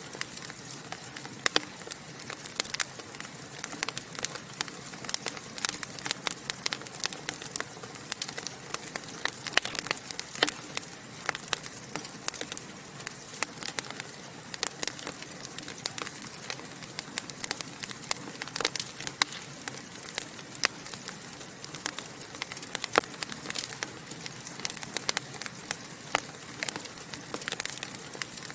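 Wood fire in a fireplace crackling and popping: a soft steady hiss of burning with frequent sharp, irregular pops.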